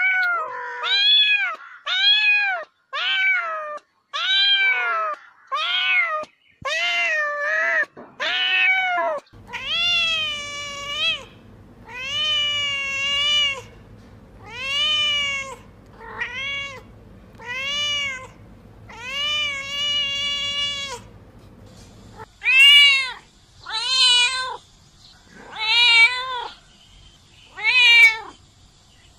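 Cats meowing over and over, about twenty separate meows. Short, arching meows at first, longer drawn-out meows from about nine seconds in with a low hum behind them, then short, loud meows again from about twenty-two seconds in.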